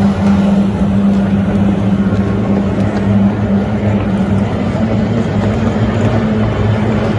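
Kyotei racing boats' two-stroke outboard engines running at speed, a loud, steady engine drone with a noisy rush over it, settling slightly lower in pitch about halfway through.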